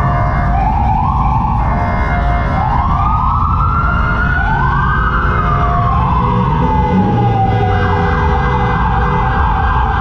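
Police car siren: a series of short rising sweeps, then one long rise and slow fall, switching to a fast warbling yelp near the end. A heavy low rumble runs underneath.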